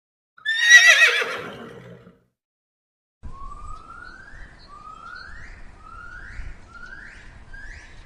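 An animal call that wavers and falls in pitch, then after a short pause five rising whistled calls, each shorter than the last.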